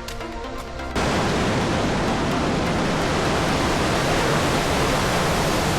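Background music ends abruptly about a second in. It gives way to the loud, steady rushing roar of a waterfall heard close by.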